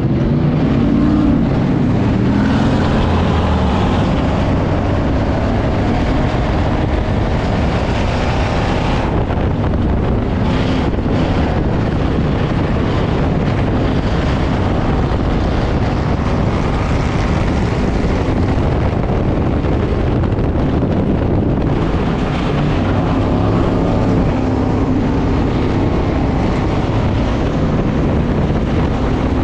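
Ford Crown Victoria's V8 running hard under racing load, heard from inside the stripped cockpit, with wind buffeting the microphone. The high rushing sound thins out briefly twice, about a third and about two-thirds of the way through.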